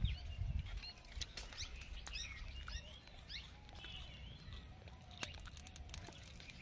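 Small birds chirping, many short rising and falling calls one after another, with a low rumble in the first second.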